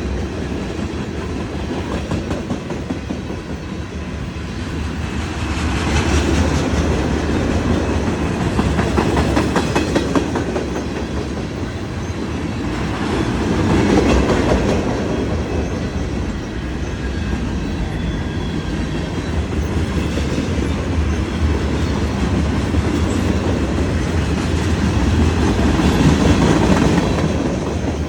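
Union Pacific freight train rolling past, its wheels clicking over the rail joints in a steady clickety-clack with a low rumble, swelling louder and easing off every few seconds.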